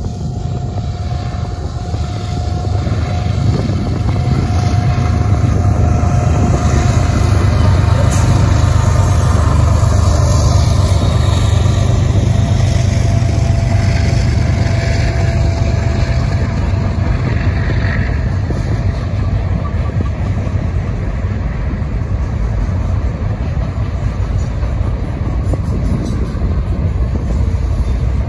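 BNSF freight train hauling garbage containers rolling past: a deep diesel rumble swells over the first several seconds, peaks about 8 to 10 seconds in, then eases slowly into the steady rolling of the container cars. A faint steady whine runs through the first half.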